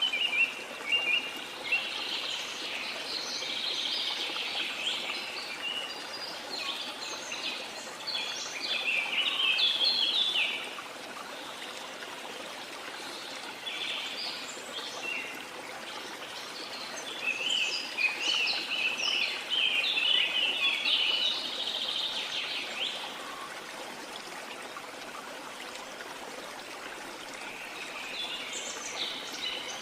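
Rainforest birds chirping and calling in rapid bouts, heaviest in the first few seconds, around ten seconds in, from about seventeen to twenty-three seconds in, and near the end, over a steady wash of falling water.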